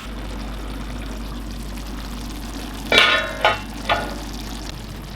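Chicken adobo in its thick soy-vinegar sauce sizzling and bubbling steadily in a saucepan near the end of stewing. A few brief, sharper sounds come about three seconds in.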